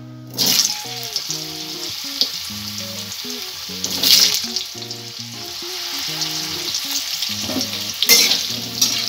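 Diced potatoes dropped into hot oil in a kadai, sizzling as they fry. The hiss starts suddenly about half a second in and swells again as more potatoes go in. Soft instrumental background music plays underneath.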